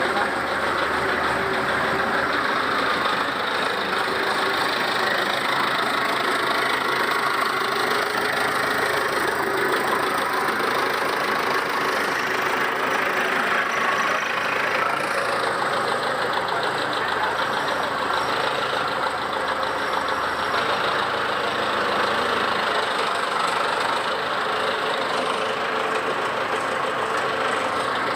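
Belarus 820 4x4 tractor's four-cylinder diesel engine idling steadily.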